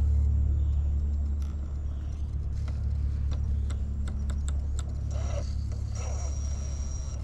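Electric RC rock crawler at work: a steady low rumble throughout, a string of sharp clicks in the first half, and a thin high whine from about five seconds in.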